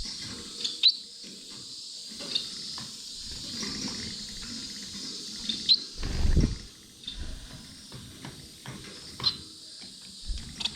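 Aviary finches feeding: several brief, sharp high chirps and calls, with small clicks of pecking. About six seconds in comes one louder, low fluttering thump close by.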